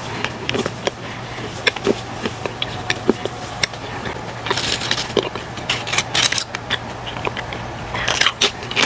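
Close-up chewing and crunching of potato chips, with scattered crisp clicks and denser crunches about halfway through and again near the end as a chip is bitten.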